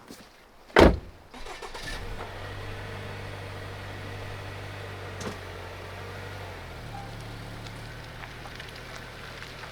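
A single loud thump, then a steady low mechanical hum that starts up and keeps running.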